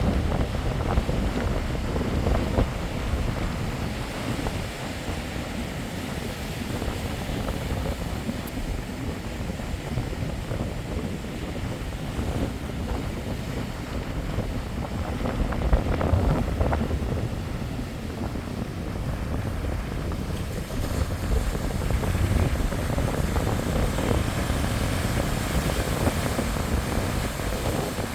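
Strong sea waves breaking and rushing on the shore, with wind buffeting the microphone: a continuous rumbling rush that swells and eases, rising again about halfway through and toward the end.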